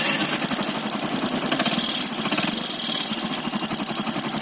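Motorcycle engine running with a rapid, steady knocking: piston slap from a piston worn loose in its cylinder block.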